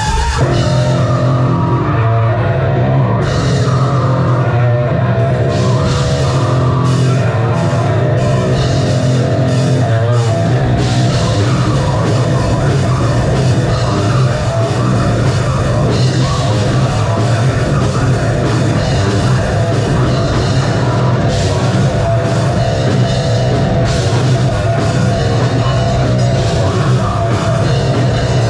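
Live heavy metal band playing loud: distorted guitars, bass and drum kit in a continuous heavy passage.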